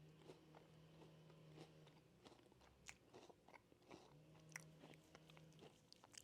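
A person chewing and biting a crunchy snack close to the microphone: faint, irregular crunches over a steady low hum.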